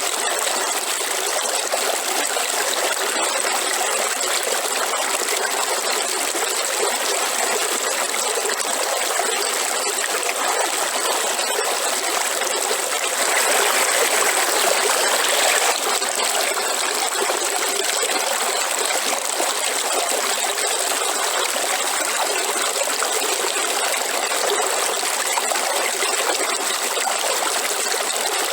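Waterfall: a steady rush of falling water, growing a little louder for a few seconds around the middle.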